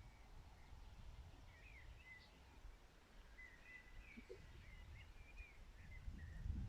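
Faint birdsong outdoors: a few short chirps, then a longer twittering phrase in the middle, over a low steady rumble, with a brief low thump near the end.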